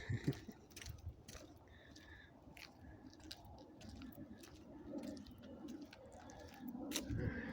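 Footsteps and light clicks and rubbing from a hand-held phone while walking, with a short bird call about two seconds in.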